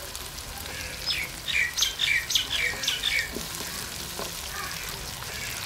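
Onion-tomato masala frying and sizzling in a steel karahi. From about one to three seconds in, a bird sings over it: a quick run of about eight short chirps, each falling in pitch.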